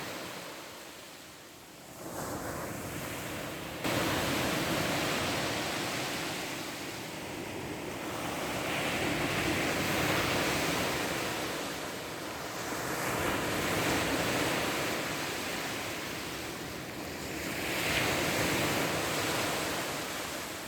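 Black Sea surf breaking on the shore, a wide hiss that swells and falls back in surges about every four seconds. The sound comes in abruptly about four seconds in.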